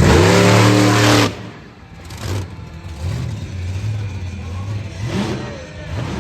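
Monster truck engine revving hard with its pitch rising, then backing off sharply after about a second. It keeps running at a lower, wavering note.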